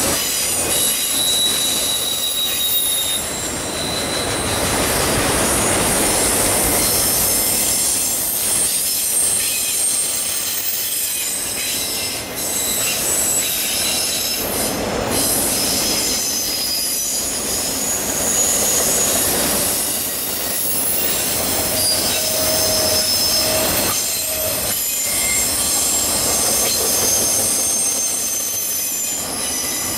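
Freight train of autorack cars rolling steadily past on a curve, steel wheels running on the rails. High, thin wheel-flange squeals come and go over the rolling noise.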